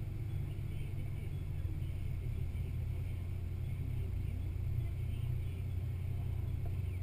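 Jeep engine running steadily at low speed while driving along soft beach sand, a steady low rumble.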